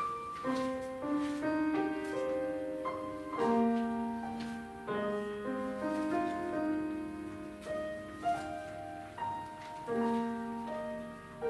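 Solo piano playing a slow piece, single notes and chords struck one after another and left to ring.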